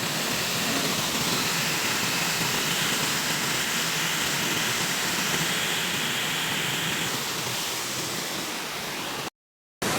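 Steady rush of falling water from Phlio Waterfall. It cuts out completely for about half a second near the end.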